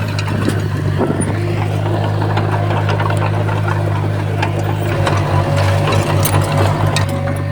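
Komatsu D51PX bulldozer's diesel engine running steadily, with scattered sharp clicks and clanks over it. For a couple of seconds past the middle, the engine note pulses in a quick, even rhythm.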